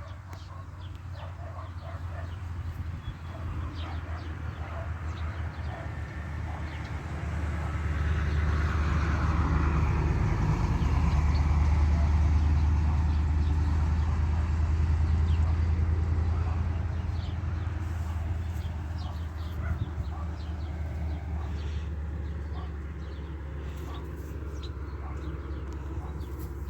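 A motor vehicle engine passing by: a low hum that grows louder, peaks midway and fades away again, with faint birds and chickens in the background.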